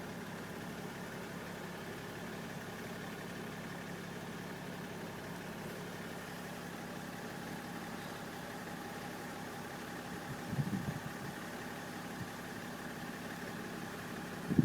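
BMW 530d E60's 3.0-litre straight-six diesel idling steadily, warm after about five minutes of driving. A short louder noise comes about ten and a half seconds in.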